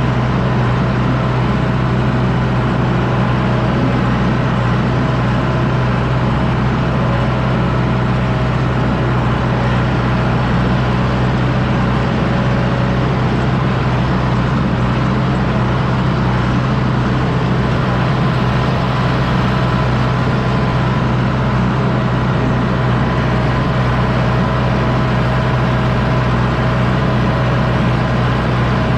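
John Deere 6110D tractor's diesel engine running steadily under load, pulling a disc harrow, with a constant low hum.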